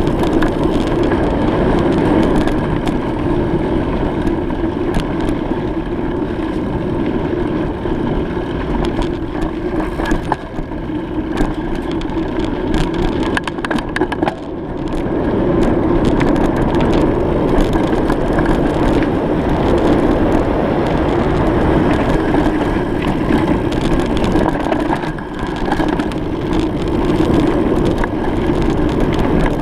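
Steady rushing noise of a bicycle ride: wind on the microphone and tyres rolling over the road, with scattered small clicks and rattles. The noise eases briefly about halfway through, then returns.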